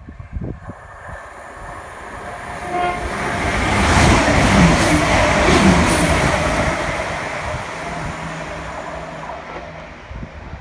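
A Chiltern Railways train passing through the station, growing louder to its loudest about four to six seconds in, then fading away.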